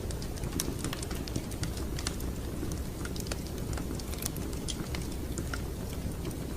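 Wood fire crackling in a fireplace: irregular sharp pops and clicks over a steady low rumble.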